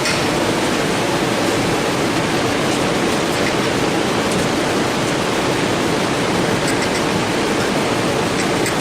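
Forced-air shop heater running with a loud, steady blowing noise, with a few faint light clicks near the end.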